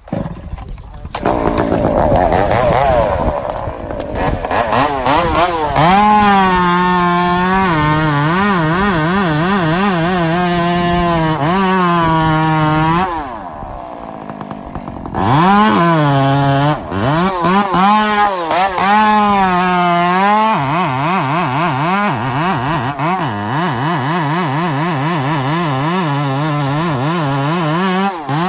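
Two-stroke chainsaw running at high revs, its pitch repeatedly sagging and recovering as it works through wood. It eases to lower revs for a couple of seconds about halfway through, then runs hard again.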